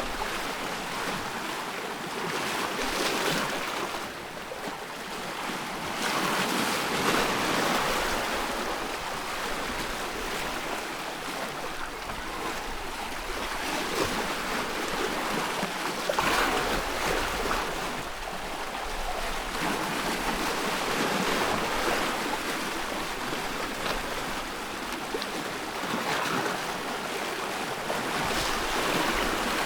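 Ocean waves breaking and washing on a shore, a steady rushing that swells and eases every few seconds.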